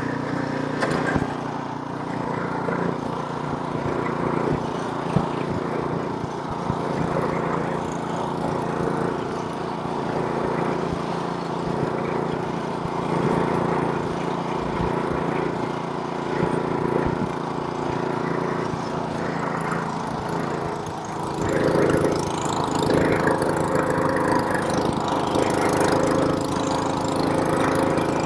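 Gas snowblower's small engine running steadily; about 21 seconds in it gets louder and its note changes.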